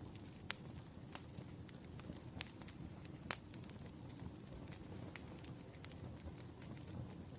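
Wood fire crackling: a steady low rustle of burning logs with scattered sharp pops, three of them louder, about half a second, two and a half and three and a half seconds in.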